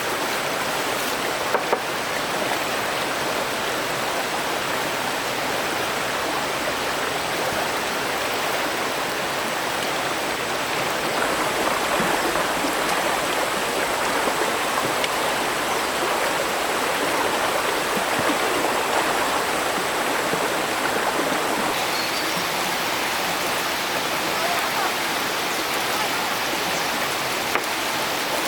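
Steady rush of flowing stream water, an even unbroken wash of sound.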